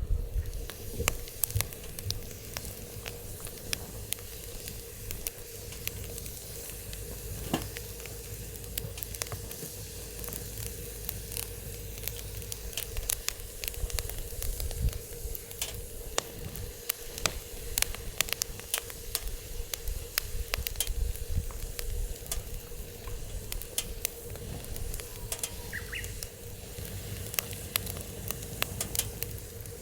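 Wood fire burning in a fire pit, crackling steadily with frequent sharp, irregular pops and snaps. Wind rumbles low on the microphone underneath.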